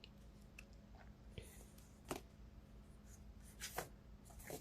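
Near silence, broken by a few faint rustles and light clicks, about three in all.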